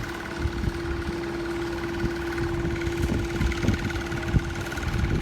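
An engine running steadily, a constant hum with a higher pulsing tone above it, over irregular low rumbling.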